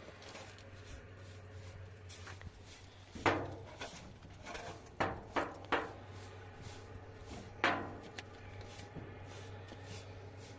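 Several short sharp knocks or clatters: one about three seconds in, a quick run of three around five seconds, and one near eight seconds, over a low steady hum.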